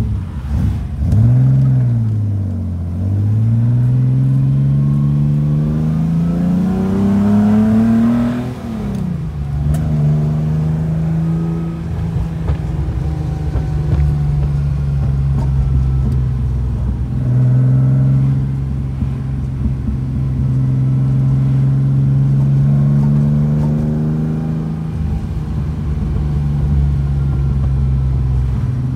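Datsun Fairlady 240Z's straight-six engine, heard from inside the cabin while driving. The revs climb steadily for several seconds, drop sharply at a gear change about nine seconds in, then hold at a steady cruise with small dips as the throttle is eased.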